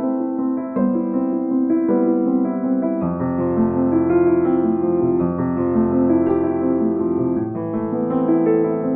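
Background piano music: a slow melody in sustained notes, with lower bass notes joining about three seconds in.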